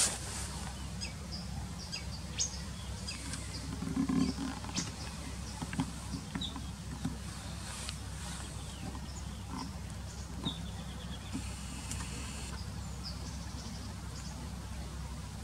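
Faint, scattered short bird chirps from the reed bed over a steady low rumble, with a brief buzzy call late on.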